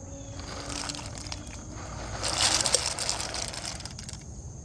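Dry bow-tie pasta tipped into a pot of water, a rush of rattling and splashing that swells to its loudest about two and a half seconds in, then dies down.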